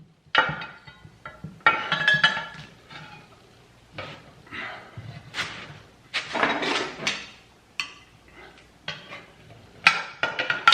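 Steel bar of a manual tire changer clanking and scraping against the wheel rim as a garden tractor tire is levered off. An irregular run of metallic knocks, some ringing briefly, with rubbing scrapes between them.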